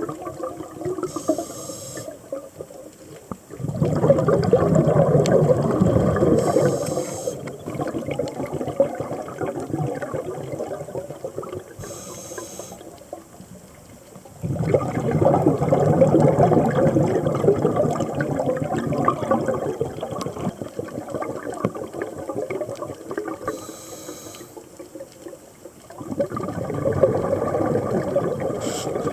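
Scuba diver's breathing heard underwater: three long rushes of exhaled bubbles from the regulator, about ten seconds apart, with short hisses of the regulator on each inhale in between.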